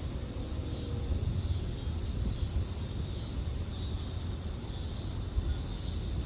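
Wind rumbling on the microphone, over a high, thin sound in the background that repeats about once a second, each time ending in a short falling slur.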